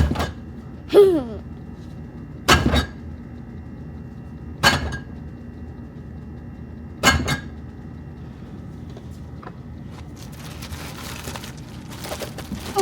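Items in a household refrigerator being handled and set down: four sharp knocks and clinks a couple of seconds apart, a short falling squeak about a second in, and rustling near the end.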